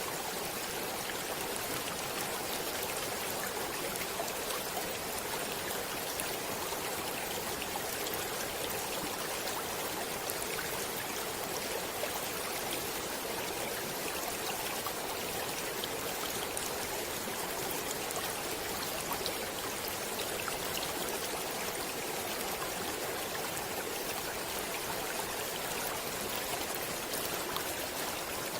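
Stream water flowing steadily: a continuous, even rush of running water with fine splashing.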